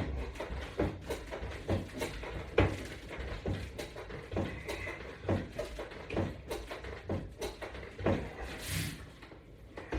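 Light knocks and clacks recurring about once a second, in the even rhythm of repeated exercise movements with resistance-band hardware.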